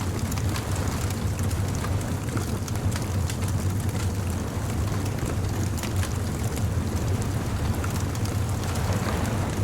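Beach bonfire crackling, with many small sharp pops and snaps scattered over a steady low rumble.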